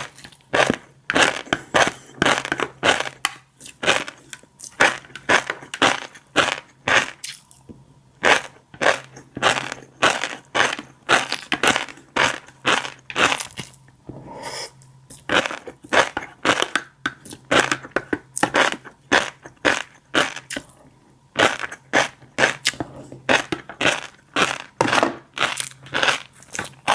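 Fish roe being chewed close to the microphone, the eggs popping and crackling in quick crisp clusters of about two to three pops a second, with brief pauses in the chewing.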